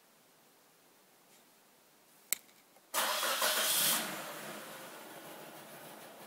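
A click, then the 1993 Nissan Sentra's 1.6-litre four-cylinder engine starts suddenly from cold about three seconds in, flaring for a second before dropping to a rough idle, which the owner blames on a cleaned but still gummed-up idle air control valve.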